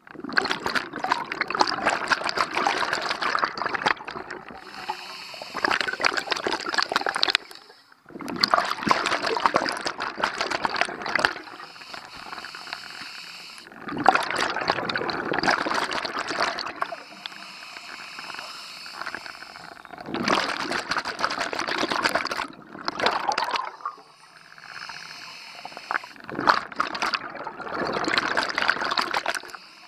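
Scuba diver breathing through a regulator underwater: exhaled bubbles rush out in bursts of two to four seconds about every five to six seconds, with a quieter hiss of inhalation between.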